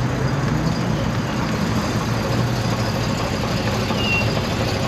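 Car engines idling with a steady low rumble.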